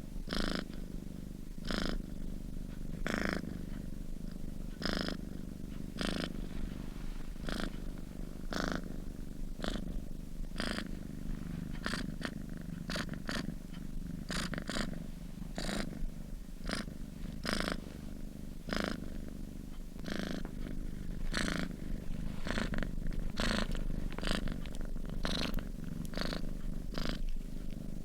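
Domestic cat purring steadily, a low continuous rumble with a soft breathy rasp on each breath, about once a second and a little faster in the second half.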